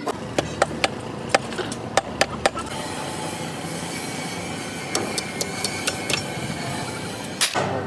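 A run of sharp taps and knocks, about seven in the first two and a half seconds, like hand tools striking engine parts. They give way to a steady hiss with a few lighter clicks.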